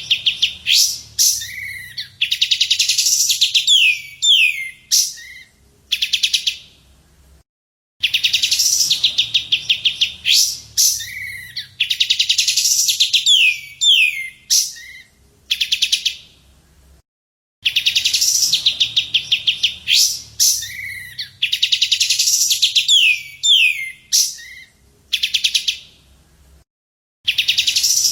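A songbird's song from a looped recording: a fast, high trill followed by several downward-slurred whistled notes, the same phrase repeating about three times with a short gap between each.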